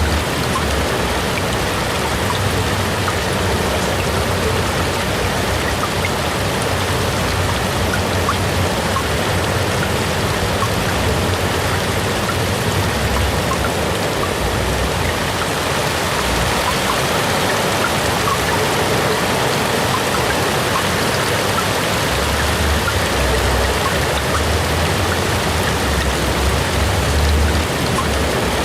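AI-generated sound of steady rain falling, a continuous hiss with scattered individual drops ticking through it and a low rumble underneath that swells at times.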